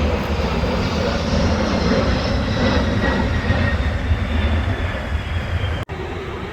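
Aircraft flying past overhead: a steady, loud roar with a faint high whine that slowly falls in pitch as it goes by. The sound cuts out for an instant near the end.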